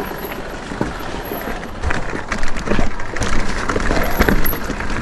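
Electric mountain bike riding over a rough track: a steady rush of tyre noise with frequent rattling knocks from the bike, growing louder and busier about two seconds in.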